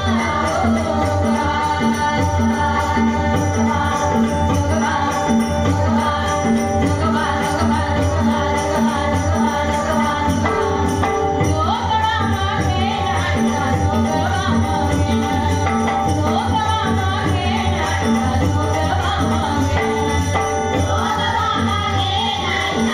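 Women singing a Marathi dabalbari bhajan together, with jingling hand cymbals and a steady rhythmic beat under held accompanying tones.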